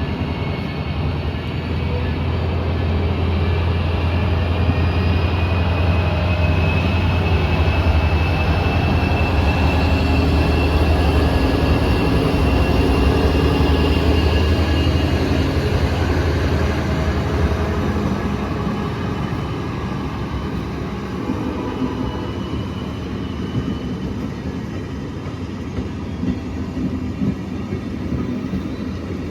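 A diesel train passing close by. A deep engine drone is heard for the first eighteen seconds or so, over the steady rumble of the cars rolling on the rails, with a faint thin whine drifting in pitch. The train grows louder through the middle, then eases off as the drone drops away.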